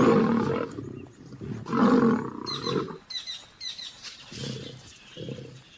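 Two male lions fighting, snarling and growling in loud rough bursts, the last two shorter and quieter.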